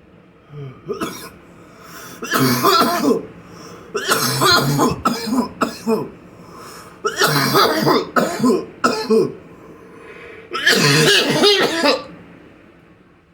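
A man coughing hard in several harsh bouts, with throat clearing, after a hit from a cannabis vape cartridge.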